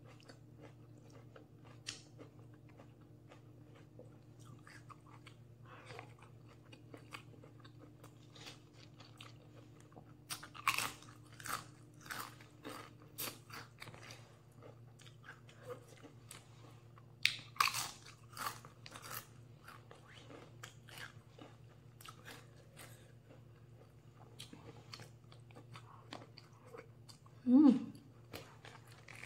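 A person eating, close to a clip-on microphone: chewing with many small crisp crunches, and louder crunchy bites about ten and seventeen seconds in. A faint steady low hum runs underneath, and a short voiced sound comes near the end.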